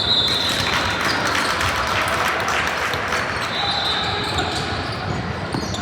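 Spectators chattering in a large hall, with scattered knocks and two short high squeaks: one at the start, one about three and a half seconds in.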